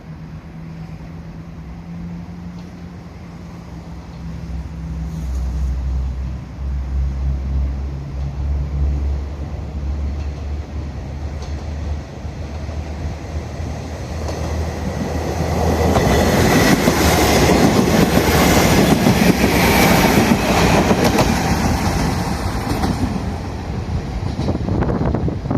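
Noto Railway NT300 diesel railcar running: a steady low diesel engine note at first, then the noise of engine and wheels on rail grows louder over the second half as the train passes close by, easing off near the end.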